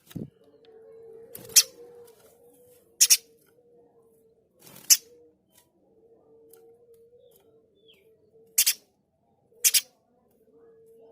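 Pijantung gunung (spiderhunter) giving short, sharp, harsh call notes, some single and some in quick pairs, five bursts spread over about eleven seconds. A steady low tone runs underneath, and there is a brief low thump at the very start.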